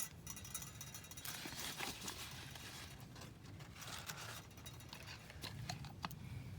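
Coffee beans rattling in a hand-held mesh roaster shaken over a campfire, in repeated bouts of shaking, with a few sharp clicks and pops.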